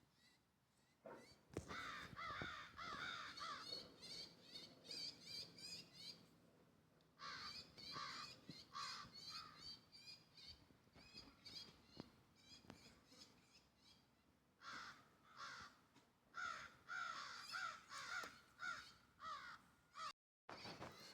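Baby bird calling in rapid strings of short, harsh notes, in three bouts with pauses between them. The audio drops out briefly near the end.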